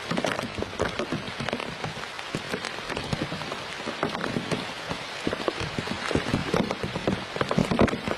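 Rain pattering on a nearby surface: a dense, irregular patter of many small taps.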